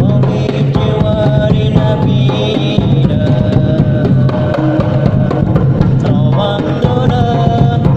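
Hadroh ensemble playing: hand drums and darbuka beat a dense, steady rhythm over a deep bass drum, with a melody line bending above it.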